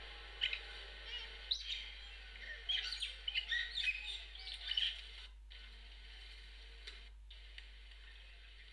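Birds chirping, a run of short, high calls that is busiest around three to five seconds in, then stops, leaving only a faint steady hiss.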